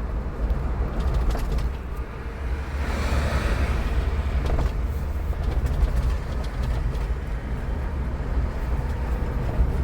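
A car being driven on the road: steady low rumble of engine and road noise, with a broader whooshing swell that rises and fades about three to four seconds in.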